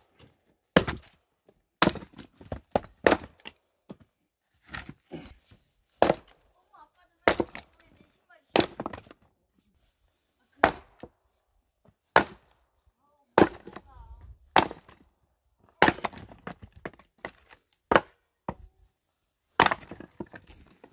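Axe splitting firewood: a string of sharp wooden chops, about one a second with a few short pauses, some blows coming in quick pairs.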